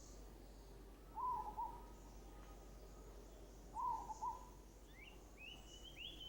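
Faint bird calls: two short warbling phrases, then a quick series of brief rising notes near the end.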